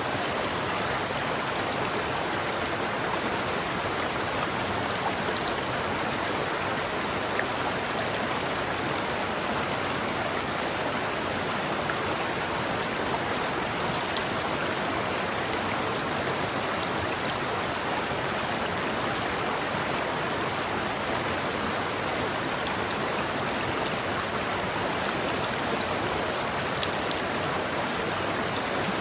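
River water flowing over rocks: a steady, even rush of running water, with a few faint small splashes.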